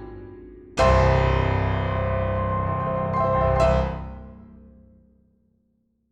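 Piano background music closing on a chord struck about a second in. The chord rings with one more note near its end, then fades away to silence.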